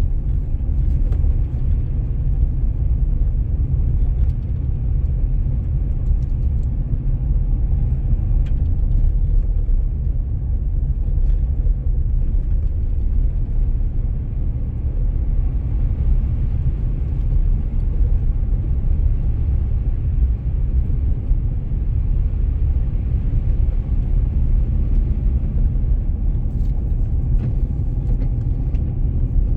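Car driving on a snowy road: a steady low rumble of engine and tyres that holds even throughout.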